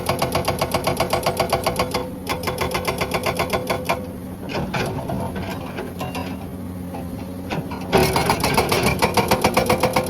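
Hydraulic rock breaker on a Komatsu excavator hammering rock in a rapid, even rhythm of sharp blows. The blows weaken about two seconds in and die away, leaving the excavator's engine running, then the hammering starts again abruptly about eight seconds in.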